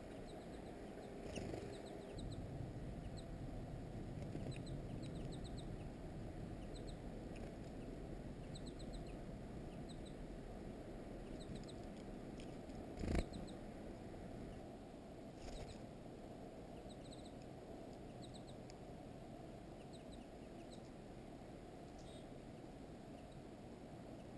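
Small songbirds giving short, high chips in twos and threes throughout, over a steady low background rumble. A single sharp knock about halfway through.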